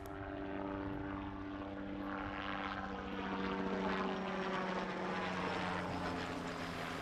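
Propeller aircraft running steadily, a hum of several even tones under a rushing noise that swells to its loudest about four seconds in and then eases slightly.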